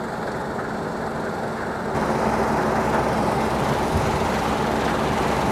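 New Holland CR9.90 combine harvester running with a steady machine drone, which gets louder and fuller about two seconds in.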